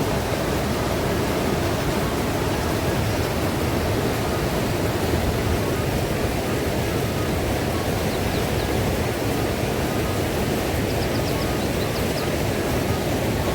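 Steady rushing noise with no break, heaviest in the low range, with a few faint high chirps near the end.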